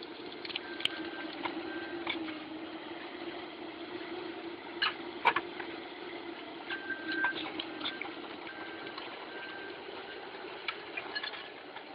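Wood-processing machinery running with a steady low hum, with scattered clicks and knocks and a few short high beeps.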